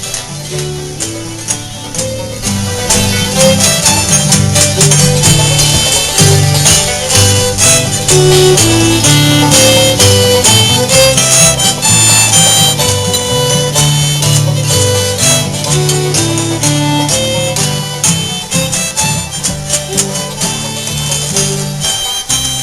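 A string band playing an upbeat tune live: steady strummed strings and a lead melody over a bass line that steps from note to note.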